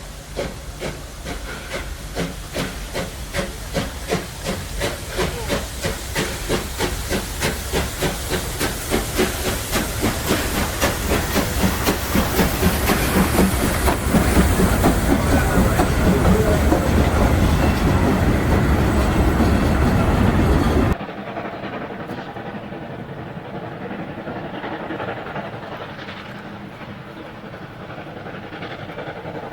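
FS steam locomotive 940.041 working under load, its exhaust chuffing in a regular beat with steam hiss, growing louder. About twenty seconds in the sound cuts off abruptly to a quieter, steadier train noise.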